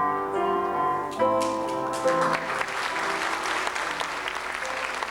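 Background instrumental music of sustained notes, then an audience starts applauding about two seconds in, the clapping going on over the quieter music.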